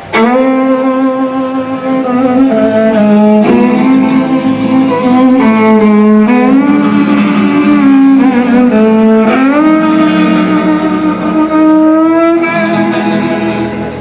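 Music in a Romanian gypsy style: bowed string instruments open with a sharp first stroke, then play long held notes that slide from one pitch to the next.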